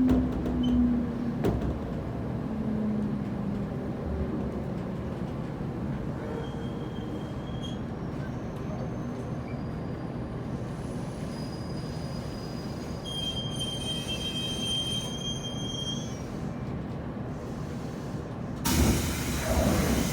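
Running sound heard inside a JR Kyushu 811 series electric train: a steady rumble of wheels on rail, with the traction motor's hum sliding slightly down in pitch at the start. A thin high wheel squeal comes in briefly twice, the longer one about two-thirds of the way through, and a loud rush of noise rises near the end.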